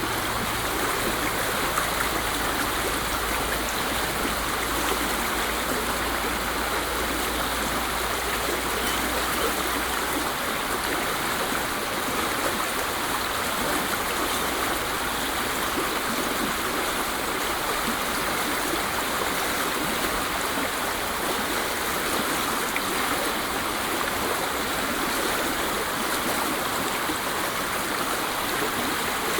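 Waterfall: a steady, even rush of falling water, with a faint low rumble underneath that fades out partway through.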